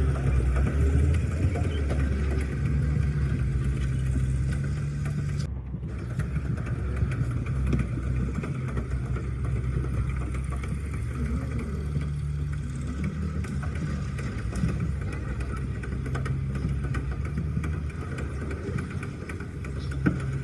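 An engine running steadily at idle, with a brief break in the sound about five and a half seconds in.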